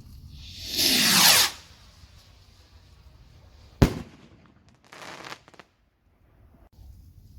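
Fireworks: a loud whoosh that falls in pitch about a second in, then one sharp bang a little under three seconds later, followed by a short hissing burst.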